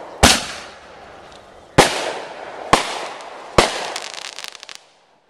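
Aerial fireworks bursting: four loud booms roughly a second apart, each trailing off, followed by a quick string of crackling pops that fades out near the end.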